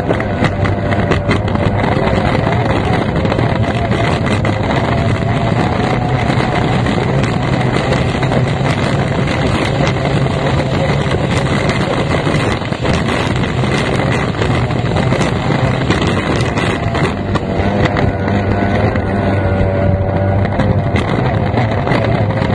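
Racing outboard engine of an F1 tunnel-hull powerboat running hard at speed, heard from the cockpit with wind rushing over the microphone. The engine note holds steady and wavers a little in pitch near the end.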